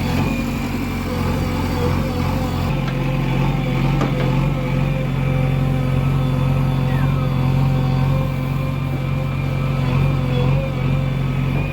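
Heavy diesel engine of a loading machine running steadily at a constant speed.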